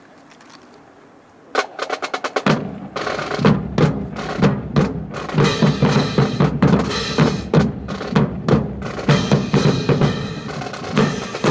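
Marching drum line starting to play: a quick run of snare strokes about a second and a half in, then snare and bass drums playing a cadence together.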